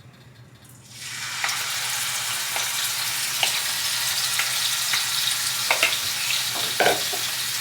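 Marinated chicken sizzling loudly in hot oil in a pan on medium-high heat, the sizzle starting abruptly about a second in as the chicken goes in. A few light knocks of a utensil stirring the pan sound over it.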